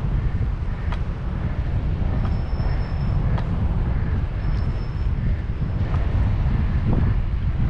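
Wind buffeting the microphone of a camera on a moving bicycle: a steady low rumble, with a few light clicks and twice a faint thin high whine.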